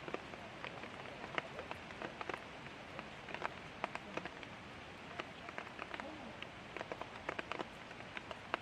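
Light rain falling: a steady hiss with irregular sharp drops tapping on hard surfaces, several a second.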